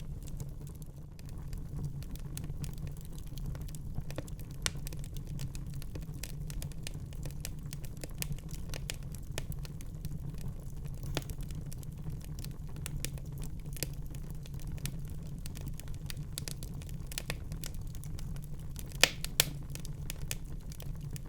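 Wood fire burning in a fireplace: a steady low rumble of the flames with irregular crackles and pops, two sharper pops close together near the end.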